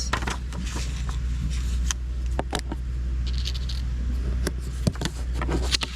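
Pen writing on an index card: faint scratching with scattered small clicks and taps, over a steady low hum.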